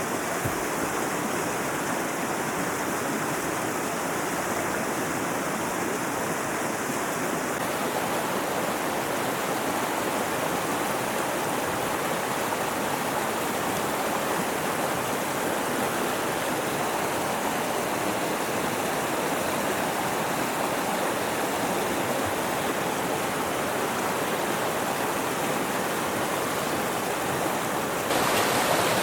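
Mountain river rushing steadily, a dense even water noise. Its tone shifts abruptly about a quarter of the way in and again near the end.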